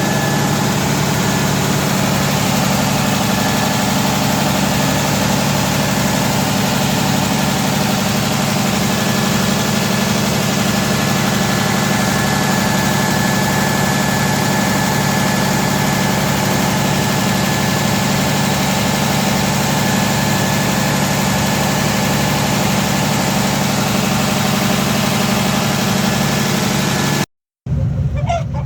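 Freshly overhauled Cummins 6BT5.9 inline-six diesel engine running steadily at idle on its test run. The sound cuts off suddenly near the end.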